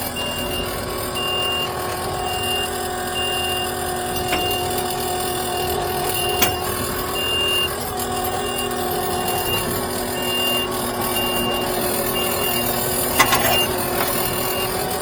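A heavy machine's engine running with its reversing alarm beeping steadily, each short high beep evenly spaced, and a couple of sharp metal knocks.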